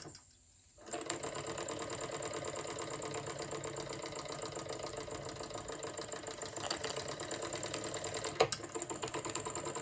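Jensen 75 live steam engine running fast with a rapid, even beat. It falls nearly silent for the first second, then picks up again, and there is one sharp click near the end.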